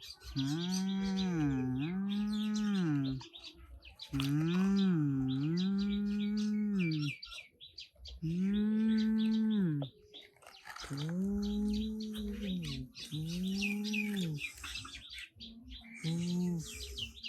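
Cattle mooing: a run of seven or eight long, low calls, each one to two seconds, one after another with short gaps. Small birds chirp high above them throughout.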